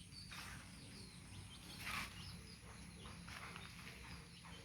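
Small birds chirping faintly: many short, high chirps over a faint steady hiss, with a brief soft noise about two seconds in.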